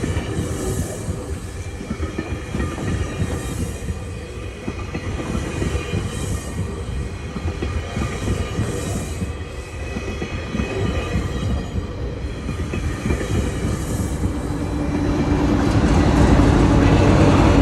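GO Transit commuter train rolling past, with a steady rumble of wheels on rail and faint high-pitched wheel squeal. Near the end it grows louder and a steady engine hum comes in.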